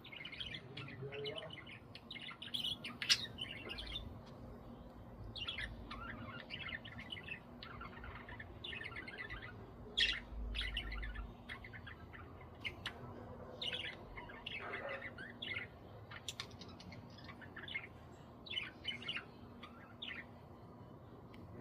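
Budgerigars chirping and chattering in irregular bursts of short, high chirps, over a faint steady low hum.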